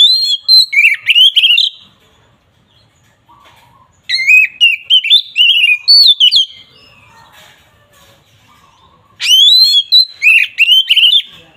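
Oriental magpie-robin (kacer) singing loud, clear whistled phrases with quick up-and-down sweeps. It gives three bursts of about two seconds each, with short pauses between, in the full open 'ngeplong' song style.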